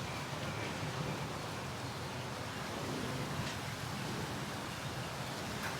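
Steady background noise, an even hiss with no distinct sounds in it.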